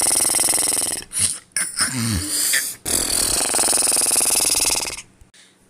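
Exaggerated snoring standing for the sleeping giant: two long rattling snores, each about two seconds, with a shorter snort between them. It stops about five seconds in.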